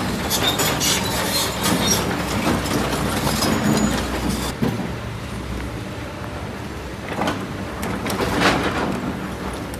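Kobelco SK200 excavator at work: its diesel engine runs under the scrape and clatter of its bucket in rock and sand. The clatter eases off about halfway through and comes back in a couple of rattling bursts near the end.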